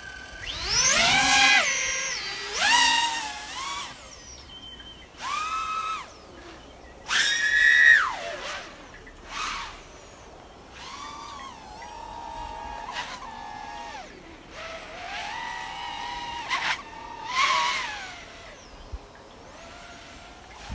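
Brushless motors of a Diatone/Eachine ER349 3-inch FPV quadcopter whining in a series of bursts, the pitch sweeping up and down with the throttle. The loudest bursts come about one, seven and eight seconds in.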